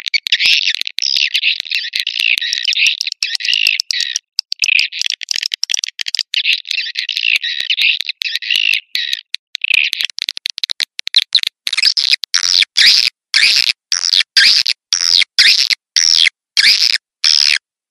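Swiftlet lure call: a dense, loud twittering of many swiftlet chirps. From about ten seconds in it breaks into short choppy bursts, roughly two a second. This is the kind of recording played to attract swiftlets to nest in a bird house.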